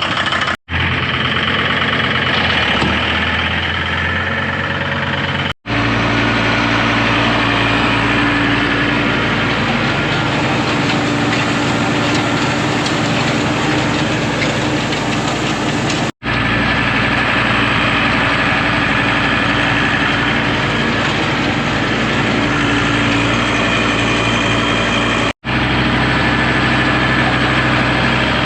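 Farm tractor engine running steadily at moderate throttle, heard across several joined clips with slight shifts in pitch between them and brief dropouts where the clips are cut together.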